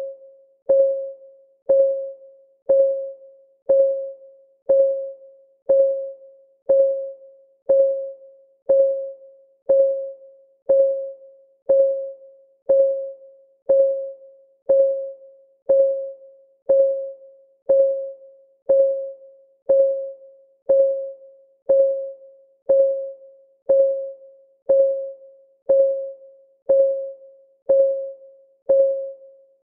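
Countdown timer's clock-tick sound: a short, pitched tick once a second, each with a sharp attack and quick decay, perfectly even in level and pace.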